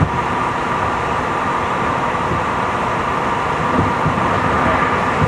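Tobu 50090 series electric train running along the line, heard from inside the car: a steady rumble of wheels on rail with a constant whine, and a few low thuds from the track near the end.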